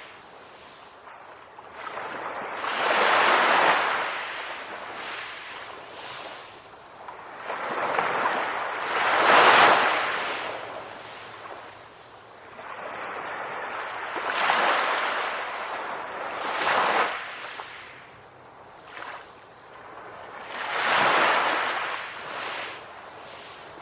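Ocean waves washing onto a beach: a swell of surf rises and fades every few seconds, about five times, the loudest about ten seconds in.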